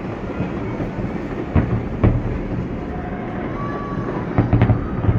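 Fireworks bursting: sharp bangs, two in the first half and a quick cluster near the end, over a steady dense rumble.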